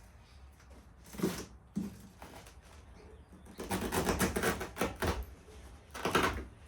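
Hand demolition work in a small room: a couple of short scrapes, then a stretch of rapid rattling clatter, like material being torn or scraped up, and one more scrape near the end.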